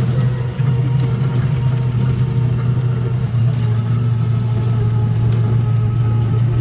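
Steady engine or motor hum, a constant low drone that holds its pitch, with a brief dip about half a second in.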